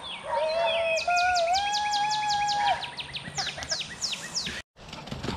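Birdsong: a rapid series of high, falling whistled notes, over a steady hummed tone that stops a little under three seconds in. The sound cuts out abruptly for a moment near the end.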